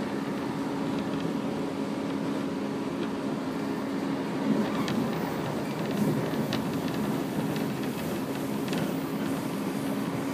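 A JR 115 series electric train running at speed, heard from inside the passenger car: a steady rumble of wheels and running gear with a low hum, and a few faint clicks.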